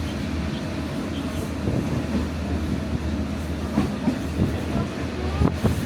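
Metre-gauge sightseeing train running on the Yunnan–Vietnam Railway, a steady low rumble with the clickety-clack of wheels over rail joints. A group of knocks comes about four seconds in and another near the end.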